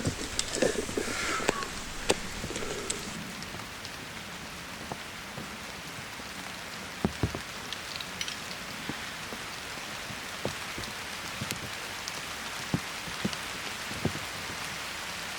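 Rain falling steadily, with scattered sharp taps of drops landing close by.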